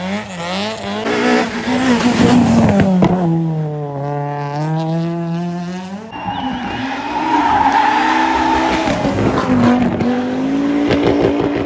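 Rally car engines at high revs through a stage, pitch rising and falling with throttle and gear changes, with tyre squeal. About halfway in the engine note changes abruptly to a different car.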